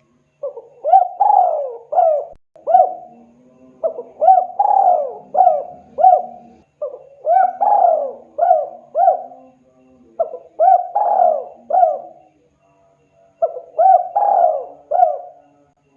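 Spotted dove (tekukur) cooing: about five phrases of four or five quick coo notes each, one phrase every three seconds or so.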